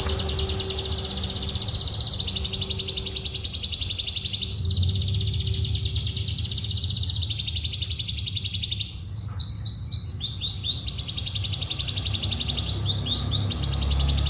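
Oriental skylark singing a long, unbroken stream of very rapid trilled notes, with a run of quick sweeping notes in the middle. A faint steady low hum lies underneath.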